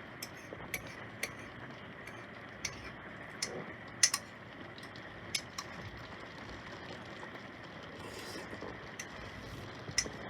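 Rain easing off: a faint steady hiss with scattered water drops ticking sharply on a hard surface at irregular moments, the loudest about four seconds in.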